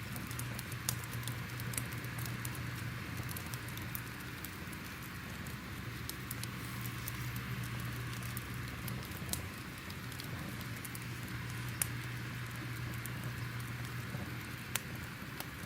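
Wood fire crackling: a steady low hiss and rumble with scattered sharp pops and snaps, a handful of them louder than the rest.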